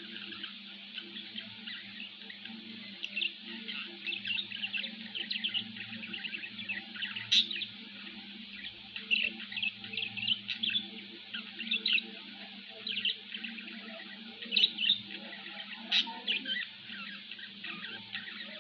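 Budgerigars chattering: a stream of quick high chirps and warbles, with a couple of sharper calls, one about seven seconds in and one near sixteen seconds. A steady low hum runs underneath.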